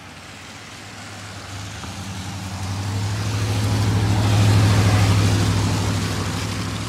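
A car driving past, growing louder to a peak about halfway through and then fading away.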